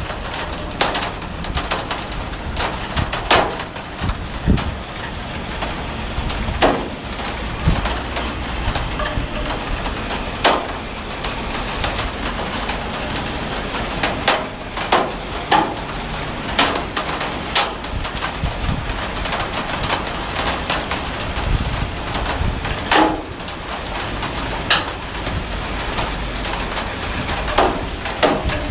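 Heavy rain falling steadily, with frequent sharp splats of large drops striking nearby surfaces at irregular moments over the steady hiss, and a low rumble underneath.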